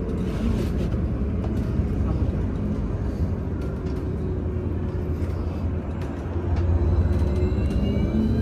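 VMZ Avangard trolleybus under way, heard from inside: a steady low rumble of road and body with a faint whine from the electric traction drive. The sound grows louder about six and a half seconds in.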